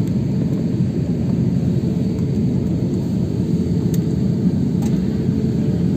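Steady low rumble of cabin noise inside a jet airliner taxiing after landing, from the engines and the air conditioning.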